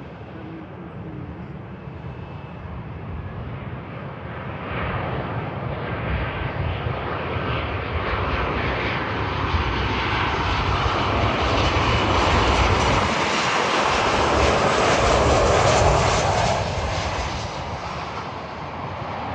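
Boeing 737 airliner's jet engines on landing approach, growing steadily louder as the plane comes by, loudest about two-thirds of the way through, then fading near the end.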